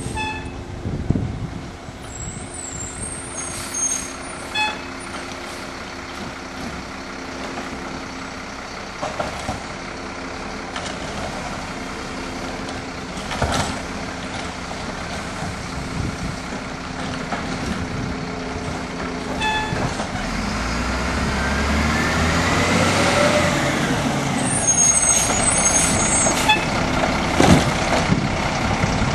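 Garbage truck's diesel engine idling, then revving up about two-thirds of the way in and staying louder. There are short high squeaks and a couple of sharp bangs.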